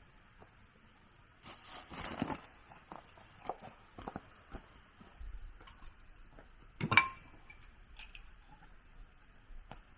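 Scattered light knocks and clinks, with one sharper knock that rings briefly about seven seconds in.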